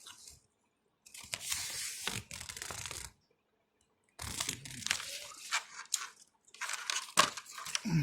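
Earphone packaging crinkling and rustling as it is handled, in three bursts with small clicks.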